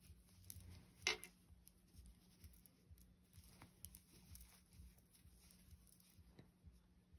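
Near silence with faint rustling and light clicks of yarn being worked with a crochet hook. One brief, louder scratchy rustle comes about a second in.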